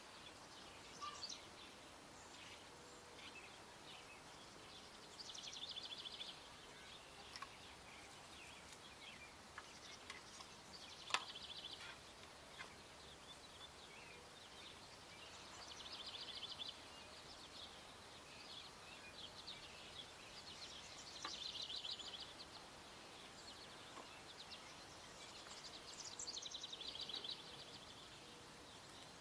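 Birds singing: a rapid high trill lasting about a second, repeated about every five seconds, with scattered short chirps between. One sharp click about eleven seconds in.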